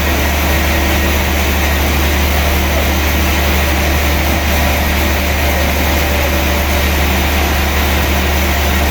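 Sawmill machinery running steadily: a heavy engine's low drone under a constant rushing noise, unchanging throughout.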